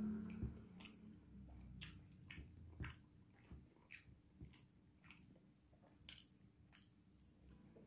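Faint close-up eating sounds: a person chewing a mouthful of rice and beef rendang, with short wet clicks and smacks at irregular intervals, about one or two a second.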